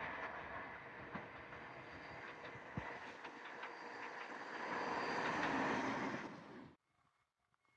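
JR Nanao Line train running past, a steady rush of wheels on rail that grows louder toward its peak and then cuts off abruptly about a second before the end, leaving near silence.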